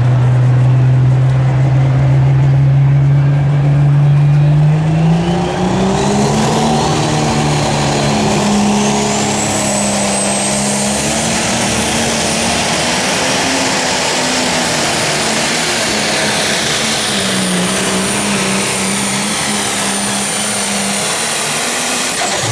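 Pro Stock pulling tractor's turbocharged diesel engine, held at a steady pitch, then rising in revs about five seconds in as it pulls down the track. A high turbo whine climbs with it and then holds as a steady whistle.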